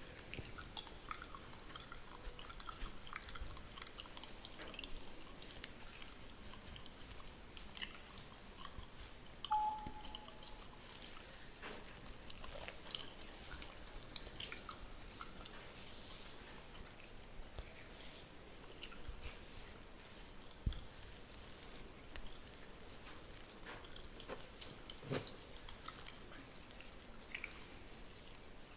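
Close-miked fingernails scratching and rubbing through beard hair and skin: a dense, irregular crackling of small clicks and rustles.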